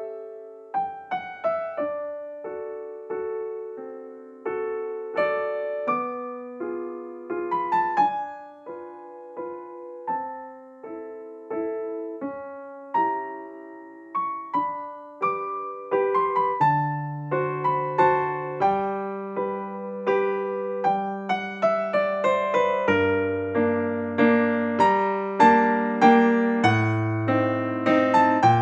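Background piano music: single notes and chords that ring and fade. About sixteen seconds in, a low bass line joins and the playing grows fuller and louder.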